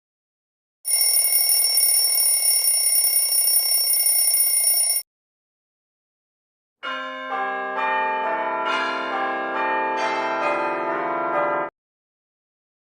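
Two bell-like sound effects. First, about four seconds of steady high ringing over a hiss. Then, after a short silence, about five seconds of layered chime tones, new notes coming in one after another, cutting off sharply.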